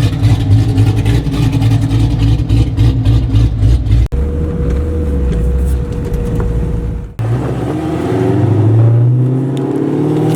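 2006 Corvette's LS2 V8 exhaust: a fast-pulsing low rumble, then a steadier drone, with two sudden breaks where the footage is cut. About seven seconds in the engine note climbs steadily in pitch as the car accelerates.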